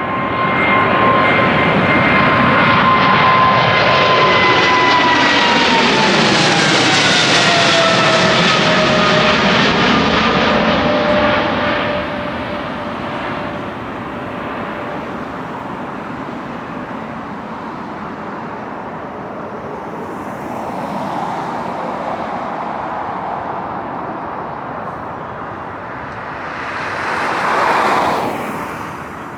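Jet airliner passing low overhead on its climb-out after takeoff: the engine whine drops in pitch as it goes by, loudest in the first ten seconds, then fading to a steady distant rumble. A brief whoosh rises and falls near the end.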